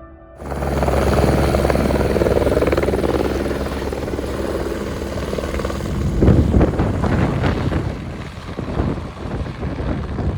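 Eurocopter EC145 twin-turbine helicopter running, its engines and rotor cutting in abruptly about half a second in as a steady low drone. From about the middle the sound turns rougher and uneven.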